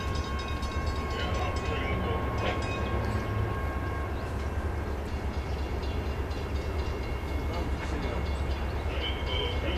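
CSX diesel-electric locomotives hauling a loaded coal train, their engines rumbling steadily as the train approaches. An air horn chord sounds at the start and cuts off about four to five seconds in.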